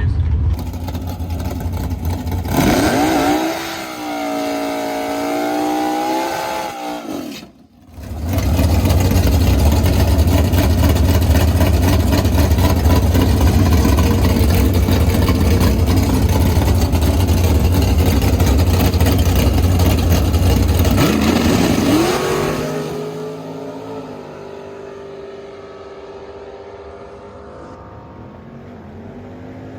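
Drag race car engine on a time run: revving with a wavering pitch for a few seconds, then a long, loud full-throttle pull lasting about fourteen seconds, after which the pitch slides up briefly and the engine drops back to a quieter steady run as it lets off.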